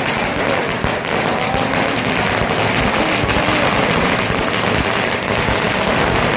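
A long string of firecrackers (a ladi) going off in an unbroken, rapid run of sharp bangs.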